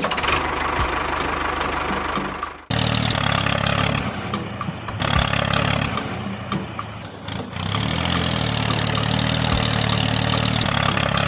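An engine running steadily, with an abrupt jump in loudness a little under three seconds in.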